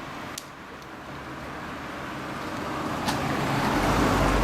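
A car approaching; its engine and tyre noise grow steadily louder, and a low engine hum comes in strongly near the end.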